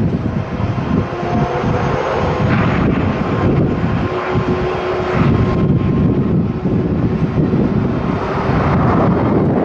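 Jet airliner engines, a loud steady noise with a few faint steady tones through it, mixed with strong wind buffeting the microphone.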